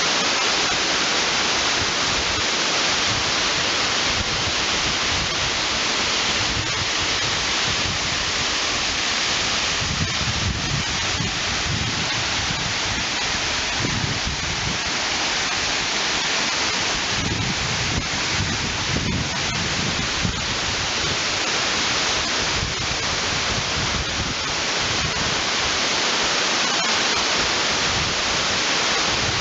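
Waterfall: a steady, loud rush of falling water, with an uneven low rumble swelling in the middle.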